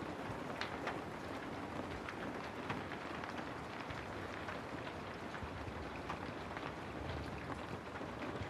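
Steady rain ambience used as white noise: a continuous hiss of rainfall with many small drops ticking on a hard surface.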